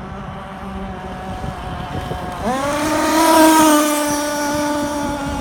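Drag-racing catamaran's engine running steadily, then revving up sharply about halfway through and holding at high revs, with a rushing hiss at its loudest just after the rev-up. Near the end the pitch drops away.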